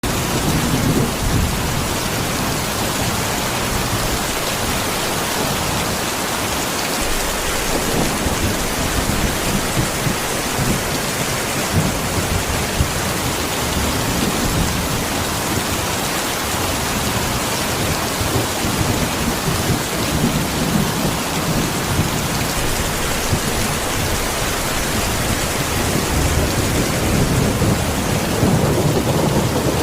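Steady rain falling, with low thunder rumbling in and out several times, the strongest rumble near the end.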